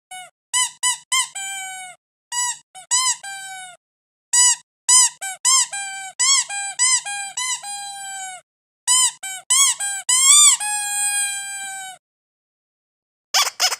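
Squeaky toy squeezed over and over: short high squeaks that rise and fall in pitch, in quick runs of several at a time. Some squeaks are held longer with a slowly falling pitch, the longest lasting about a second and a half near the end.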